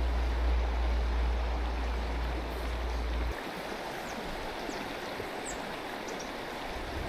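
Mountain stream water rushing steadily. A low rumble sits under it for the first three seconds or so and then stops.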